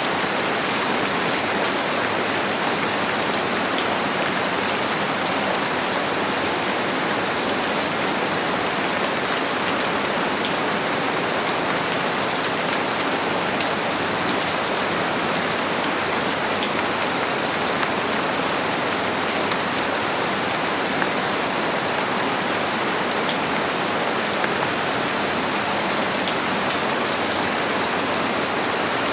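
Steady rain falling, with many fine drop ticks over a constant hiss.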